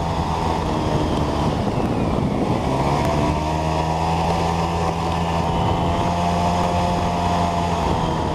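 Small motor scooter's engine running steadily while riding, its pitch dipping about two seconds in and climbing back to hold steady, with wind noise over the microphone.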